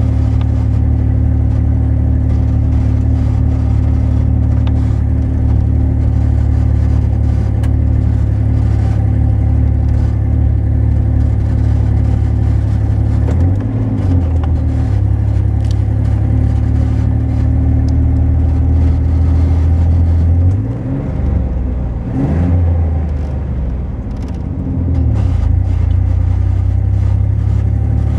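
Chevy 4x4 pickup's engine and drivetrain droning steadily while climbing a hill under load. About 13 seconds in, and again from about 20 to 25 seconds, the drone dips and wavers in pitch: the truck stuttering under load, a fault the owner suspects is electrical.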